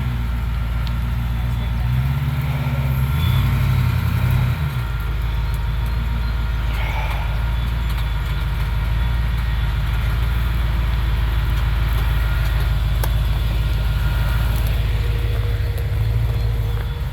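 Off-road truck engine revving up for a couple of seconds about two seconds in, then running steadily at low revs as it crawls.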